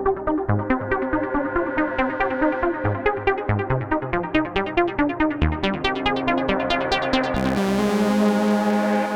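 Electronic music played on a Polyend Medusa synthesizer: a fast sequenced arpeggio of short plucked notes over a bass line. About seven seconds in it gives way to a held chord with a swelling hiss.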